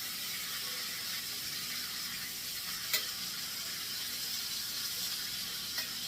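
Chicken thighs frying skin side down in hot oil in a skillet, a steady sizzle. A sharp click of metal on the pan about halfway through and a softer one near the end.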